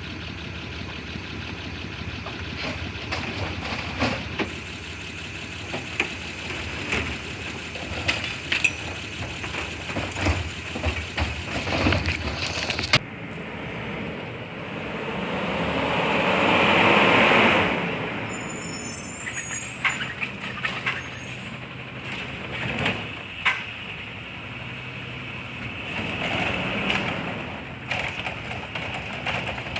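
Garbage truck at work in the street: engine running under a scatter of knocks and clanks, then a loud rushing noise that swells and fades about halfway through.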